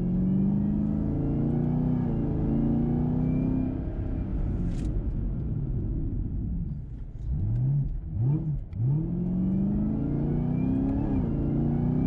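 Camaro ZL1 1LE's supercharged V8 with its new 3-inch catback exhaust, heard from inside the cabin, accelerating hard under paddle shifting, its pitch climbing and then dropping at each shift. About seven to nine seconds in, the engine falters and surges in three short bursts of revs, a hesitation the driver can't account for, before pulling steadily again.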